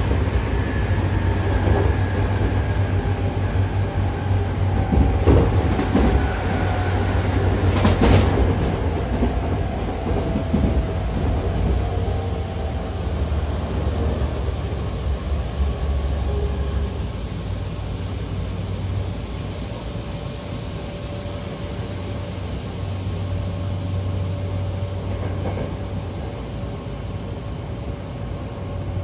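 Hankyu Kyoto Line electric train running between stations, heard from inside the carriage by the doors: a steady rumble of wheels on rail with a faint whine falling slowly in pitch, and one sharp clack about eight seconds in. The running noise eases somewhat in the second half.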